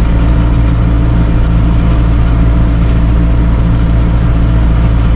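Tractor engine running steadily at set PTO RPM, driving a hay baler while baling.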